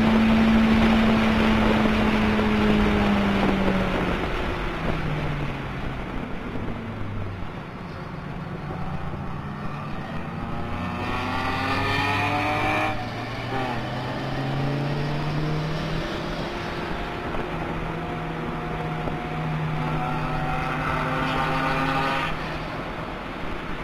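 Toyota MR2 Turbo's turbocharged four-cylinder engine heard from inside the cabin, running hard at high revs, then dropping in steps as the car brakes and downshifts about four seconds in. It climbs again as the car pulls out of a slow corner, with a break in the note near the middle for a gear change and another step near the end.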